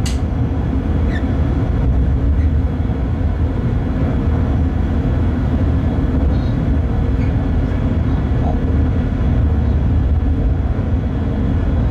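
Steady low rumble of a Bombardier TRAXX BR186 electric locomotive running along the line, heard from inside its driver's cab, with a sharp click at the start.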